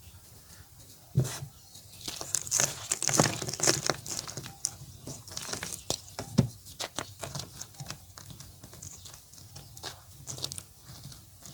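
Block of orange gym chalk crumbling and crunching as it is broken up: a sharp snap about a second in, then dense dry crackling, heaviest in the first few seconds and thinning to scattered crunches.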